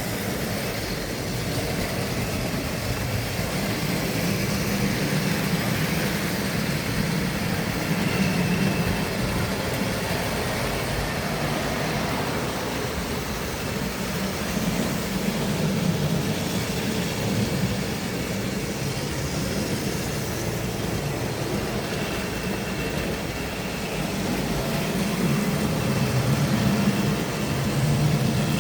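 Tri-ang model train running round a track: a steady motor hum and wheel rumble that swells and fades every few seconds as the locomotive circles the layout.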